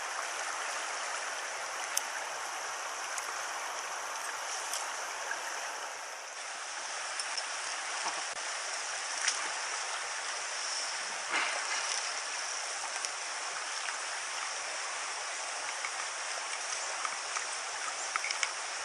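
Small stony stream running steadily, a constant rush of water over stones, with a few faint clicks scattered through it.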